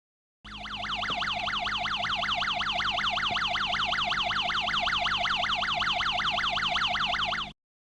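Electronic alarm-like warbling tone, sweeping rapidly up and down in pitch about six times a second. It starts about half a second in, swells over the first second, holds steady and cuts off abruptly near the end.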